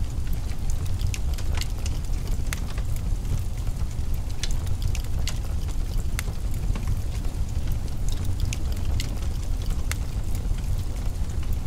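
Wood fire crackling, with sharp irregular pops about once or twice a second over a low, steady rumble.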